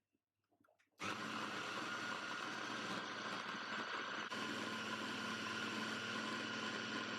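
A small electric motor switches on suddenly about a second in and runs at a steady speed with a constant whirring hum, like a kitchen blender running.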